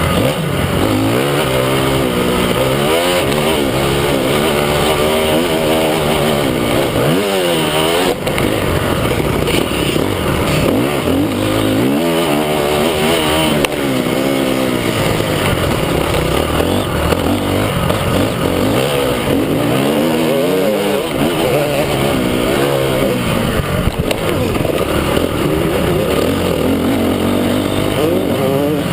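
Several motocross motorcycles running on the track at once, their engines repeatedly revving up and dropping back in pitch, overlapping without a break.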